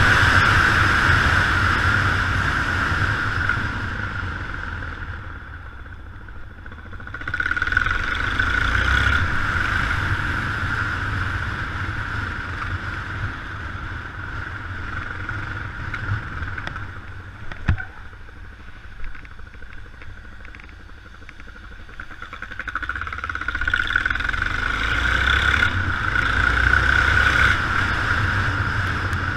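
Yamaha XT 600 single-cylinder motorcycle engine running under way, with wind rushing over the camera. The sound swells and fades several times as the bike speeds up and slows down, and a single sharp knock comes a little past the middle.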